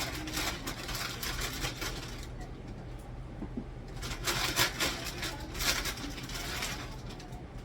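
Two runs of quick clattering and crinkling as items are handled: one through the first couple of seconds, the second starting about four seconds in and lasting about three seconds.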